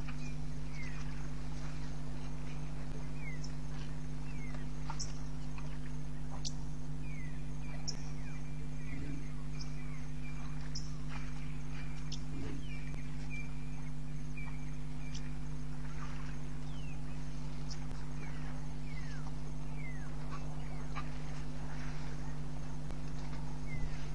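Birds calling in short, sharp, downward-sliding chirps scattered throughout, with a run of quick repeated high notes in the middle, over a steady low hum.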